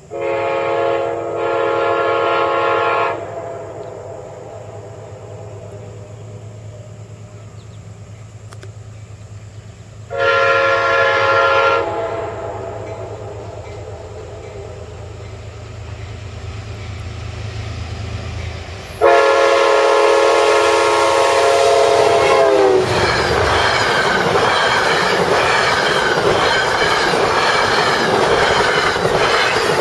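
Metro-North commuter train approaching and sounding its multi-tone horn in several blasts, near the start, about ten seconds in, and a long one around nineteen seconds that drops in pitch as the train reaches the camera. Under the horn, a low rumble from the train grows as it comes closer. Then the coaches pass close by with loud wheel clatter and rushing air.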